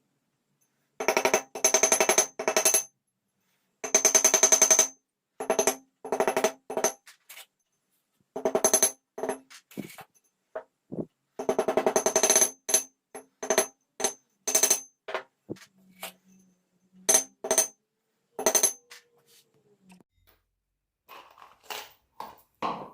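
Repeated short bursts of metallic buzzing and clinking with a ringing tone, each starting and cutting off abruptly.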